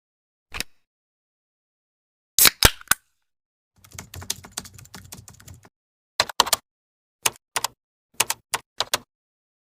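Typing on a computer keyboard: scattered key clicks, with a quick run of keystrokes in the middle, separated by dead silence.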